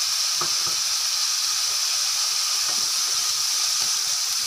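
Chicken pieces and carrot strips sizzling in ghee in a hot nonstick frying pan, soy sauce just added, a steady high hiss.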